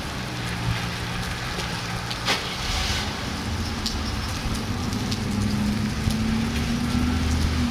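Steady rain falling in a thunderstorm, with a low steady hum underneath and a few scattered sharp ticks.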